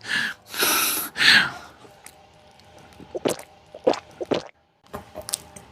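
A person making sound effects with the mouth: three short hissing, breathy bursts in the first second and a half, then a few soft, separate clicks and pops.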